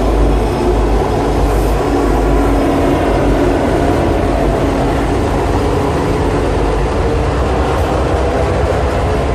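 Norfolk Southern freight train going by: diesel locomotive engines running loud and steady over a deep rumble.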